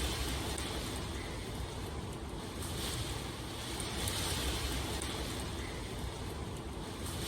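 Steady rain falling, an even hiss that swells and eases every few seconds.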